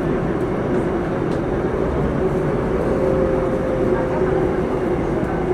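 Singapore MRT Downtown Line train running between stations in the tunnel, heard from inside the car: a steady rumble of wheels on rail with a held motor hum.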